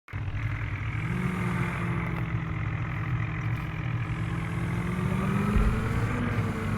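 Vehicle engine running steadily, its pitch rising a little about a second in and again near the end as it picks up revs, with a low thump just before the end.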